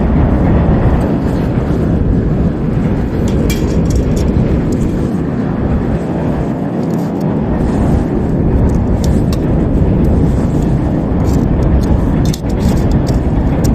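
A fire pit burning a heap of waste cat litter, with a steady low rumble and scattered sharp crackling pops.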